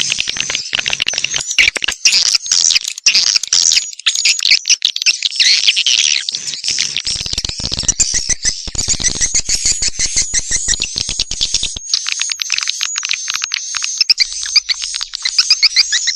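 Swiftlet call track (suara panggil): a dense, loud chorus of swiftlets twittering in rapid, high chirps, played to lure wild swiftlets into a swiftlet house. About seven seconds in a fast run of sharp clicks joins the chirping for some five seconds.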